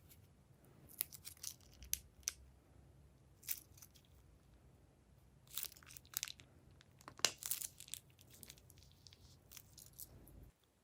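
Plastic piping-bag packaging being crinkled and torn open by hand, in several short crackly bursts with pauses between.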